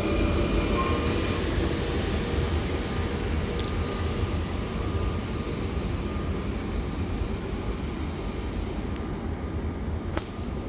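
A train moving through the station with a steady rumble of wheels on rail and faint high wheel squeal in the first couple of seconds, the sound slowly easing.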